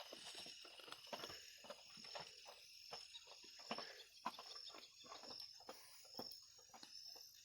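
Night insects chirring steadily at a high pitch, with many irregular faint clicks and crackles.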